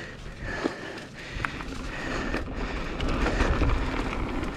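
Mountain bike rolling along a dirt trail, tyre noise and wind rushing over the microphone with scattered small clicks, growing louder over the first few seconds.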